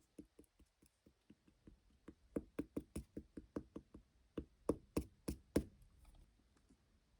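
Slime being pressed and squeezed, making a rapid run of sharp clicking pops, about four or five a second, loudest around five seconds in before stopping near the six-second mark.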